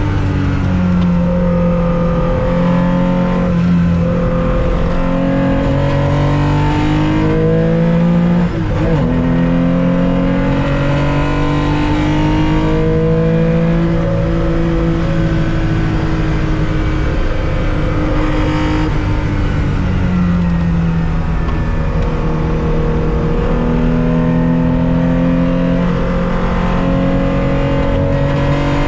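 1965 Porsche 911 2.0's air-cooled flat-six at racing speed, heard from inside the car: the pitch climbs and drops back with several upshifts in the first ten seconds, holds high and steady for a while, falls back around two-thirds of the way in, then climbs again.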